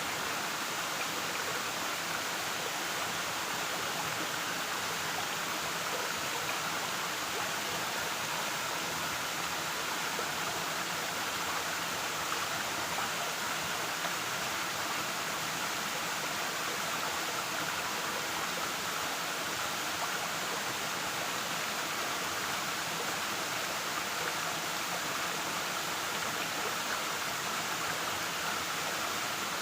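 A waterfall: water pouring and splashing in a steady, unbroken rush.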